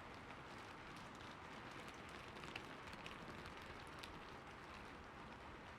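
Faint steady rain, an even hiss with a few soft drop ticks.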